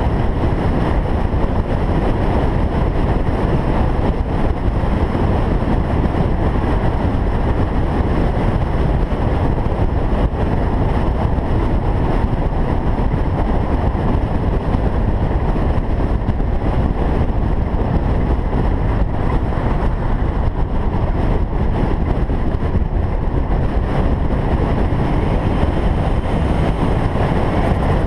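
Single-turbo Toyota Supra driving at a steady speed: a constant drone of engine and road noise with no rise or fall in revs.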